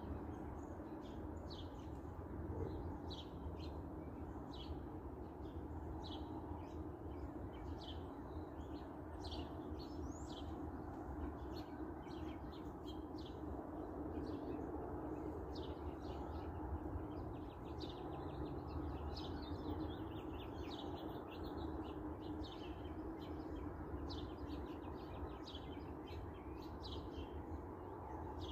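Small songbirds chirping continually, many quick short chirps, over a steady low background rumble.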